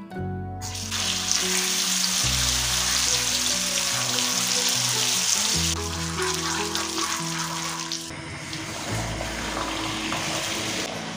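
Food sizzling in hot oil in a pan, starting suddenly about half a second in and dying down after about eight seconds, over background music.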